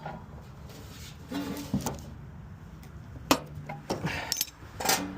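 Scattered clicks and knocks of hands working metal parts and fittings during a furnace blower-motor replacement, over a steady low hum.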